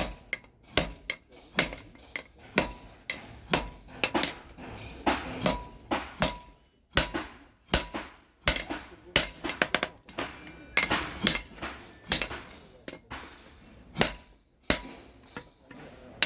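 Blacksmith's hand hammer striking steel on an anvil while forging a machete blade: an uneven, steady run of blows, about two a second, each with a short metallic ring.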